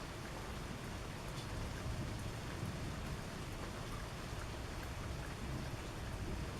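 Steady rain falling during a thunderstorm, with a few sharper drop ticks now and then.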